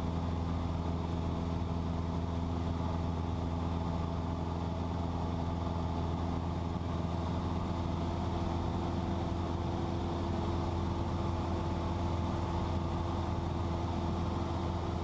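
Cessna 172's piston engine and propeller droning steadily at cruise power, heard from inside the cabin, with an even low hum and no change in pitch.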